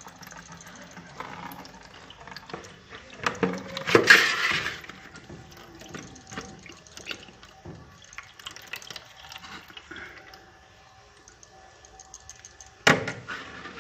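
Water draining and dripping from a washing machine's disconnected inlet hose into a bucket, with irregular splashes and clicks. A couple of louder splashes or knocks come about four seconds in and near the end.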